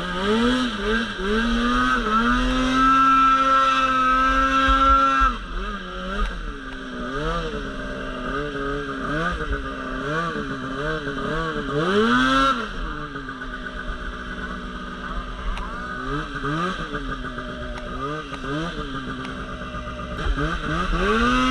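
Polaris RMK Pro 800 snowmobile's two-stroke engine under throttle. It is held at high revs for a few seconds, then blipped up and down about once a second, and climbs again near the end.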